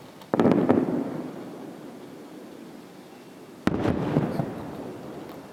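Fireworks shells bursting: a loud bang just after the start, followed by a few quick cracks, then a second bang with cracks about three and a half seconds later. Each fades out over about a second.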